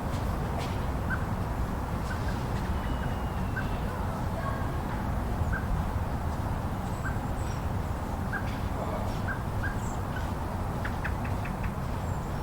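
Steady wind noise of a snowstorm, with faint short chirps dotted through it and a quick run of high ticks near the end.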